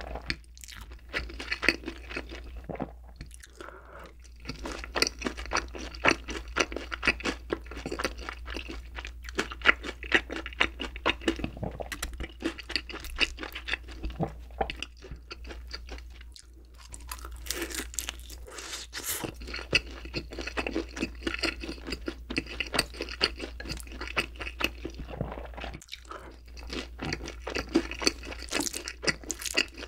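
Close-miked chewing of crispy glazed boneless fried chicken: a dense run of crisp crunches and crackles as the coating breaks, with a few short pauses between bites.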